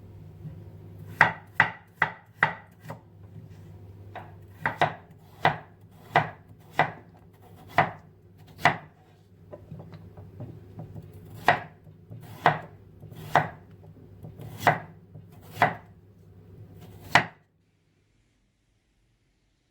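Knife chopping on a cutting board in irregular strokes, about one a second, over a low steady hum. The sound cuts off suddenly near the end.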